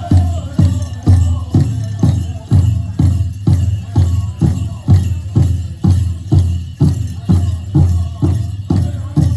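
Powwow drum group playing a song: the big bass drum is struck in a steady, even beat of about two strokes a second, and the singers' voices fade out near the start.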